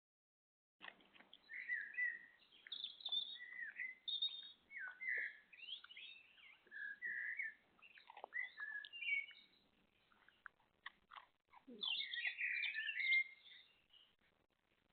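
Small garden birds chirping and twittering in quick bursts of short notes, heaviest near the end. A run of faint clicks comes a little past the middle.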